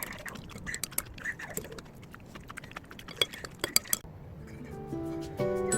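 Cutlery clinking against dishes in a run of short, sharp taps while eating. About four seconds in they stop and light mallet-percussion background music, glockenspiel-like, fades in.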